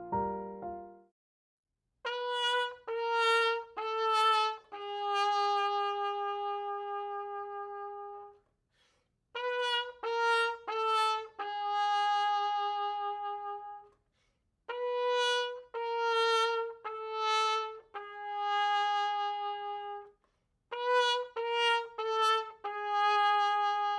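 Trumpet playing the sad 'wah wah wah waaah' failure cue: three short notes stepping down chromatically, then a long held lower note, repeated four times.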